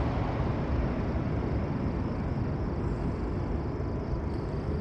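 Jet airliner on landing approach: a steady low engine rumble with a faint high whine, easing off slightly as it passes.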